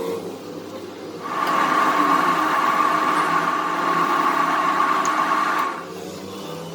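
A machine with an electric motor runs for about four and a half seconds with a steady high whine over a rushing noise. It starts about a second in and cuts off near the end, leaving a lower hum.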